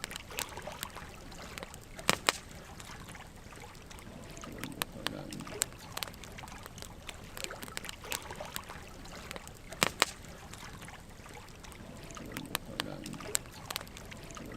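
Wood fire of burning logs crackling, with irregular sharp pops over a steady soft hiss of flames; the loudest pops come about two seconds in and again near ten seconds.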